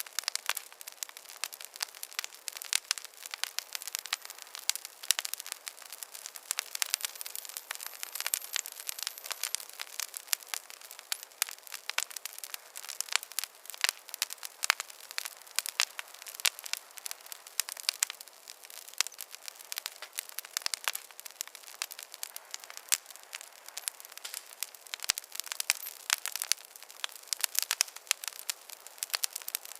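Wood fire crackling in a fireplace: a dense, steady stream of small sharp pops and snaps. A faint, very high thin whistle runs briefly between about four and ten seconds in.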